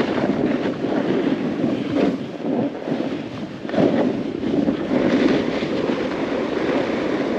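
Snowboard sliding and scraping over snow while riding, with wind rushing over the camera microphone; the noise surges unevenly, rising about four seconds in.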